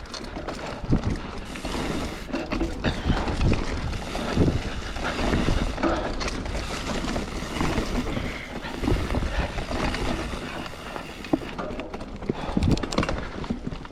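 Mountain bike ridden over a rough trail: irregular knocks and rattles from the frame and components over bumps, over tyre and wind rumble.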